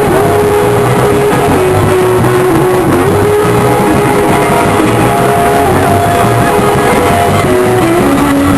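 Loud live praise-break music with a guitar carrying a held, sliding melody over a steady bass and drum groove.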